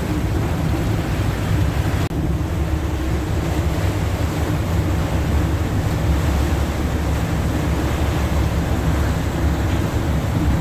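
A sightseeing boat under way: a steady low engine hum mixed with the rush of water and wind buffeting the microphone.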